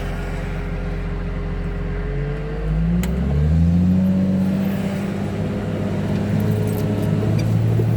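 A vehicle's engine idling, then revving up as the vehicle pulls away about two and a half seconds in. Its pitch rises over about a second and then holds steady as it drives on.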